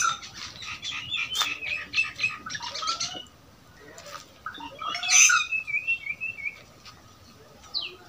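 Small birds chirping in quick, busy runs: a dense spell for the first three seconds, another burst about five seconds in, and a couple of short glides near the end.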